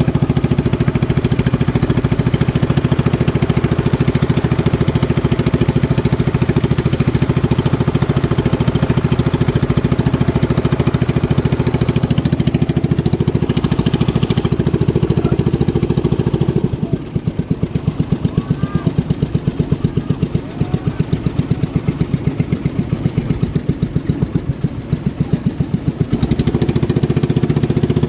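Racing boat engines running hard with a rapid, even pulse; about two-thirds of the way through the sound drops and the separate firing pulses can be heard, then it rises again near the end.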